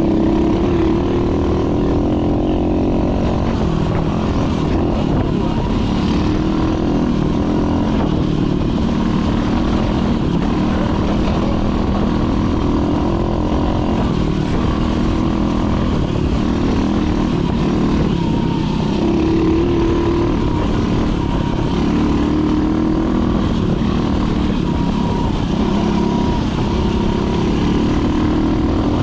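Dirt bike engine running while being ridden along a trail. Its pitch rises and falls with the throttle.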